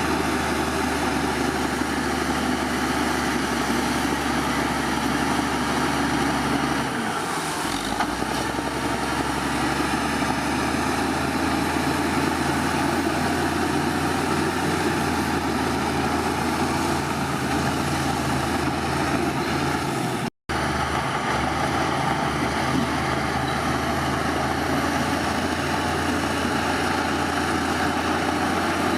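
Heavy diesel engine of earthmoving machinery running steadily, its note shifting about seven seconds in. The sound cuts out for an instant about twenty seconds in.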